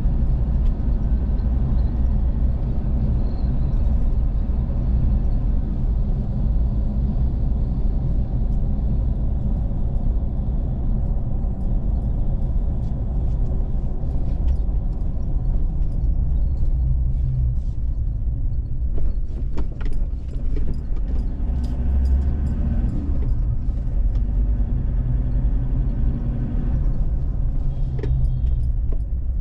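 Steady rumble of a vehicle driving on the road, engine and tyre noise, with a few brief clicks and knocks about two-thirds of the way through.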